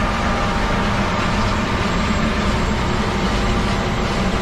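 A heavy engine running steadily, with a thin steady whine over it.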